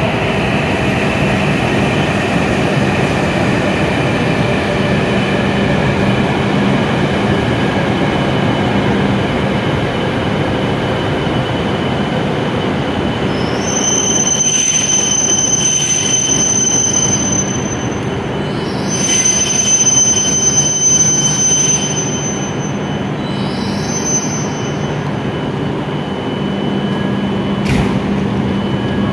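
E7 series Shinkansen train pulling slowly into the platform and braking toward a stop, its running giving a steady rumble. From about halfway a high-pitched squeal comes and goes three times, the last one short.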